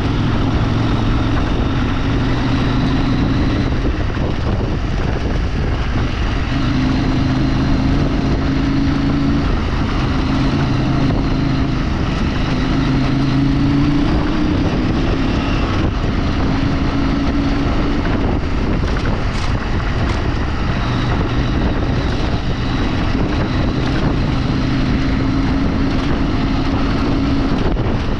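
Engine of a vehicle driving off-road, running continuously. Its note holds steady for stretches of a few seconds and shifts between them, with wind noise on the microphone.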